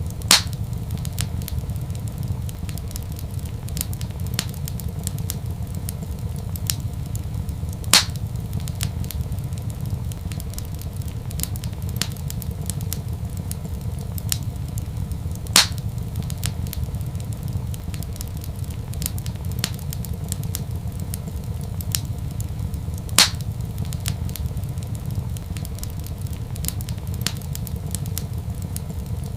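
Wood fire crackling in a fireplace: a steady low rumble with frequent small crackles, and a louder sharp pop about every seven and a half seconds, four in all.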